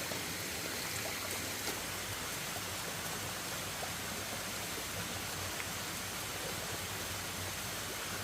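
Steady, even water noise with no distinct events.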